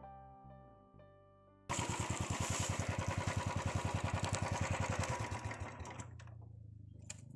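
Piano music fades out, then a motorcycle engine cuts in, running at idle with a loud, rapid, even thumping beat. About six seconds in it softens to a low steady hum.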